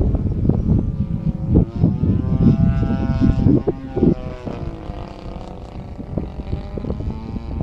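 DLE 35 single-cylinder two-stroke gas engine of a large RC aerobatic airplane running in flight, its pitch dipping around the middle and rising again. Heavy wind buffets the microphone.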